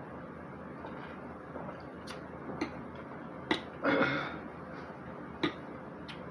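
Close-up eating sounds from a seafood meal: a few sharp, widely spaced clicks and cracks, with a short louder wet smacking burst about four seconds in.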